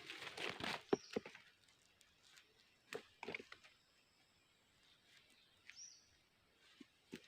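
Rustling with a few sharp knocks or snaps, and two faint, short, high chirps that fall in pitch.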